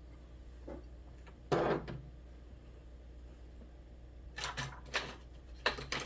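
Handling noise: a few short knocks and scrapes, the loudest about a second and a half in and a cluster of them near the end.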